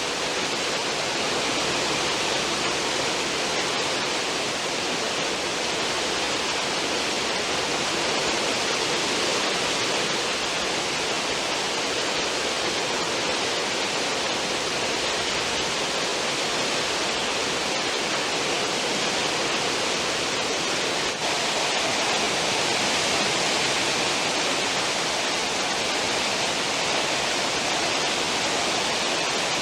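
Cruise ship's stern wake churning behind the hull: a steady, even rush of water without a break.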